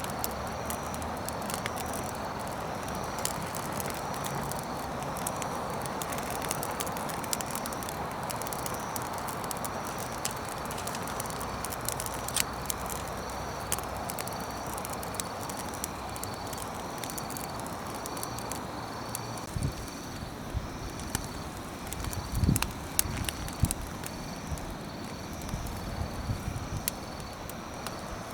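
Wood campfire crackling: scattered sharp pops and clicks over a steady hiss. From about twenty seconds in, low thuds and knocks join in.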